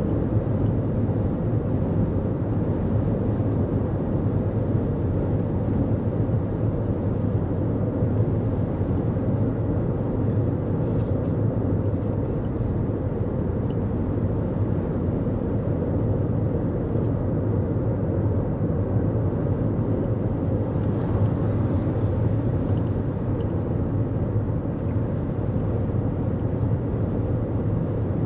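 Steady road and tyre noise of a 2024 Toyota Corolla Cross cruising at highway speed, a constant low rumble with no change in pitch.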